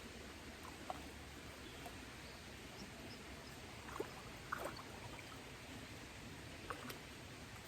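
Faint steady running water of a small creek, with a few soft clicks and taps, most of them about four seconds in and near the end.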